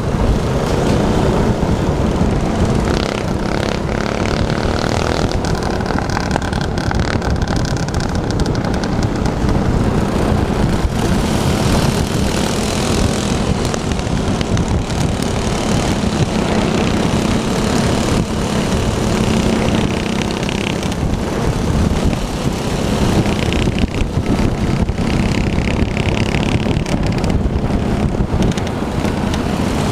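Small minibike engine running steadily, with a steady low drone under loud, even noise.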